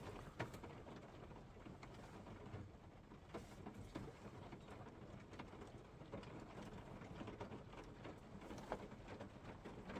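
Faint patter of easing rain, with scattered irregular drips and ticks.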